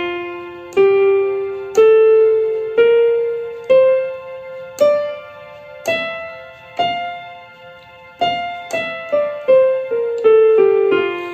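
F major scale played on an electronic keyboard with a piano sound, one note at a time: eight notes climbing an octave at about one note a second, then eight coming back down more quickly.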